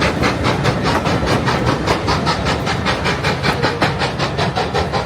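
Steam locomotive working hard, its exhaust beats coming as a fast, even chuff of about five or six a second.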